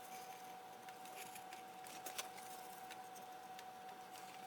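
A few faint, light clicks and taps over a steady faint hum.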